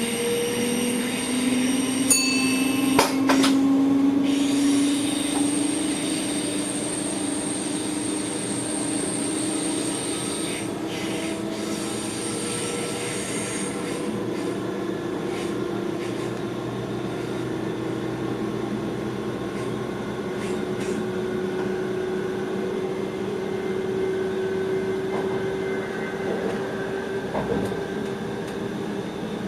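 Electric train heard from the driver's cab: the traction drive whines in a tone that rises slowly in pitch as the train gathers speed. A few sharp clicks come about two to three seconds in.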